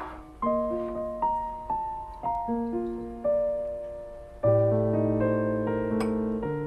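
Background piano music: a slow melody of single notes, joined by fuller chords with a low bass from a little past halfway.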